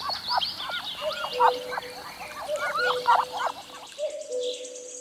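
Duck calling: a quick series of short, repeated calls, with high, thin bird chirps above them. The calls stop about four seconds in.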